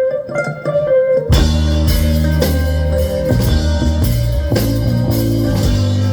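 Live rock band playing an instrumental passage: a lone held guitar note, then bass guitar and drum kit come in together about a second in and the full band plays on.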